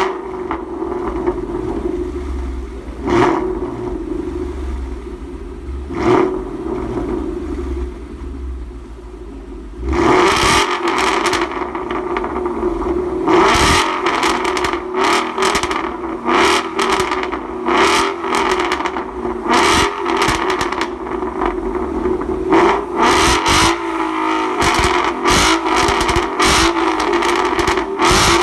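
Ford Mustang GT 5.0 V8 with a Corsa Xtreme catback exhaust idling with three short rev blips, then revved harder and louder from about a third of the way in, in a series of quick revs. It is being revved to set points to show off the exhaust note.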